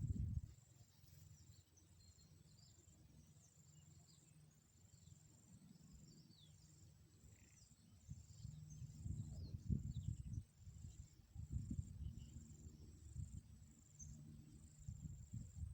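An insect chirping in a high, thin pulse repeated evenly about once a second, with a few faint short chirps. Irregular low rumbling comes and goes underneath, loudest in the second half.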